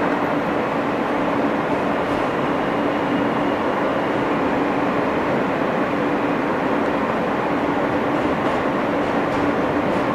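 R160 New York City subway car running at steady speed between stations, heard from inside: an even rumble of wheels on rail with a steady low hum.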